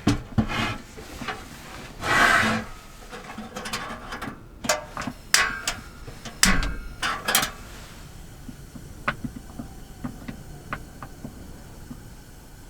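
Objects being handled: a short rubbing rustle, then a quick series of sharp clicks and knocks, thinning to a few light ticks in the second half.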